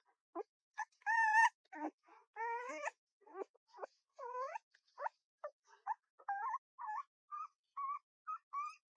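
A small pet animal crying in a quick series of short, high whines and yelps. A few longer cries in the first half waver and fall in pitch.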